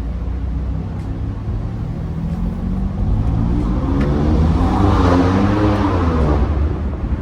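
Car engine rumbling, then rising in pitch and loudness to a peak about two-thirds of the way through and falling away again.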